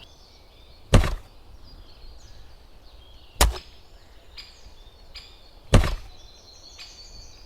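Three sharp thunks, evenly spaced about two and a half seconds apart, each with a short ringing tail.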